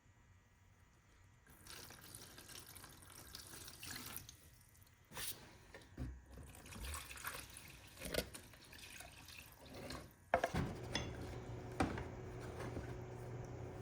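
Water running and splashing, with several sharp knocks as things are handled in it; a steady low hum starts about two-thirds of the way through.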